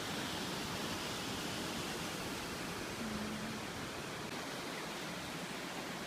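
Waterfall: water falling and splashing onto rocks in a steady, even rush.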